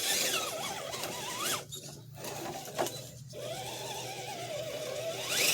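Redcat Gen7 RC rock crawler's electric motor and gears whining under load, the pitch wavering up and down with the throttle and dropping out briefly twice, as the truck struggles for grip on a wet, muddy climb.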